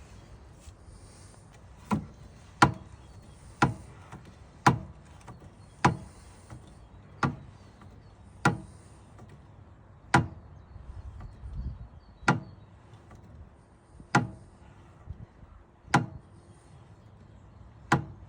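A series of single sharp knocks, about ten of them, spaced irregularly a second or two apart, some louder than others.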